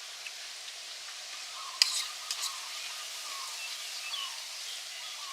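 Steady outdoor hiss with a sharp click about two seconds in and a few smaller clicks just after, and faint short bird chirps in the second half.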